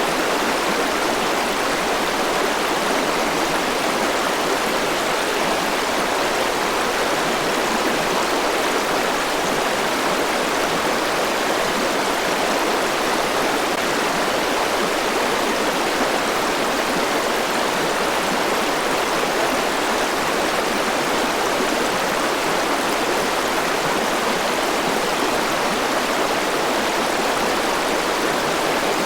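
A river rushing over rocks, a steady unbroken wash of water noise.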